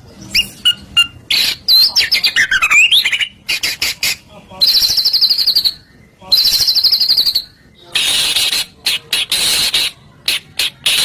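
White-rumped shama (murai batu) singing a loud, varied song: whistled glides, then two long rapid trills, then harsh rasping notes in the last few seconds.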